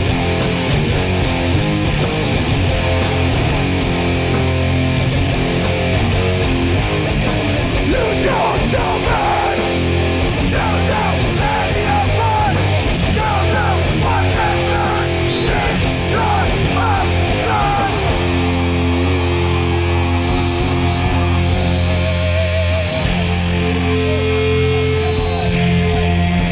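Hardcore punk band playing live: loud distorted electric guitars over bass and drums in an instrumental passage, with wavering higher notes over the riff from about eight to eighteen seconds in.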